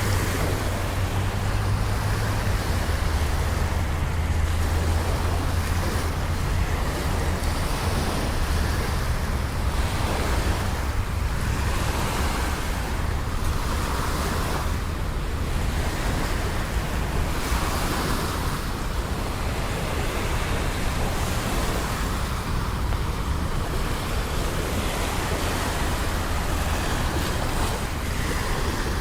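Steady rain with the low rumble of city traffic, swelling and easing as vehicles pass on wet streets. A low engine hum fades out over the first half.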